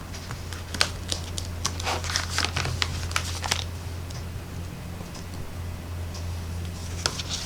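Crinkling and light clicks from a stamp set being handled as a 'thank you' stamp is pulled out of it. The sounds are busiest in the first few seconds and sparse after that, over a steady low hum.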